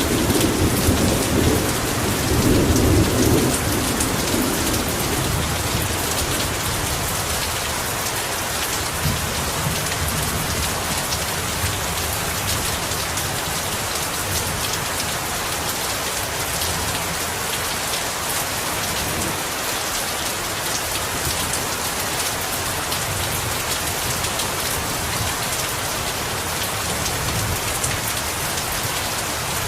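Heavy rain falling in a steady downpour. A low thunder rumble runs under it for the first few seconds, then fades away.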